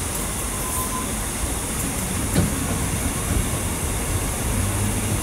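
MEMU electric train pulling out of the station, seen from on board, with a steady rumble of wheels on rails and one sharp knock about two and a half seconds in. A low hum grows stronger near the end.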